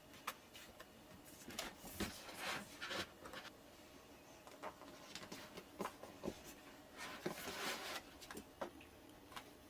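Scattered light clicks, taps and short rustling or scraping sounds of small objects being handled, with two busier stretches, the second coming about seven seconds in.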